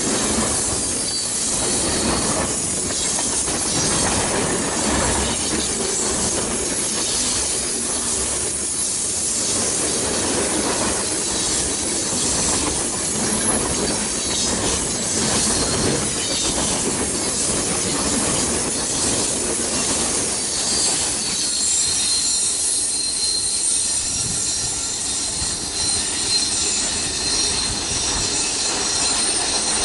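Freight train cars rolling past, steel wheels clacking over the rails with some wheel squeal. In the last several seconds, as the final cars go by, the low rolling rumble thins out and a steady high whine is left.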